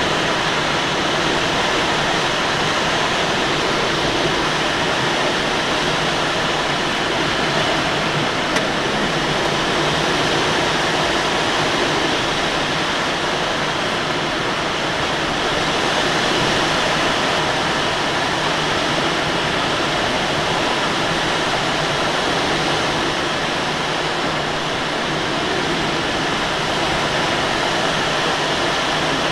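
Steady rush of airflow inside the cockpit of a Let L-13 Blaník glider in flight.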